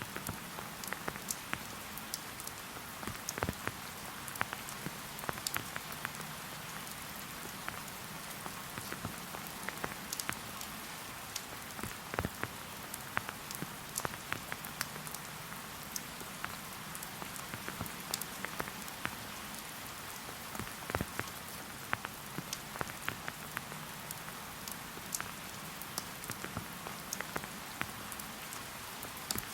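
Steady rain falling, with many close drops ticking sharply and irregularly over an even hiss.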